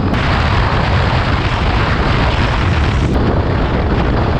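Heavy wind buffeting on the camera microphone of a motorcycle at road speed, a dense roar that covers any engine note. The sound changes abruptly about three seconds in, where one clip is joined to the next.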